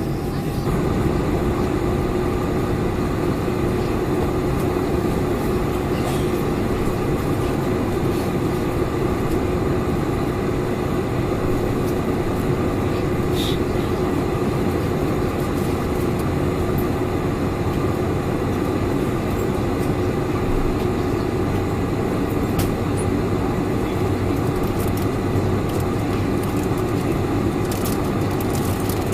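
Steady cabin noise inside a four-engine Boeing 747-400: engine drone and airflow rumble with a steady hum, holding even with no change in pitch.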